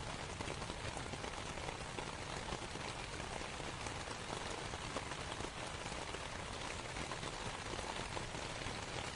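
Steady rain falling on a canvas tent: a dense, even patter of drops.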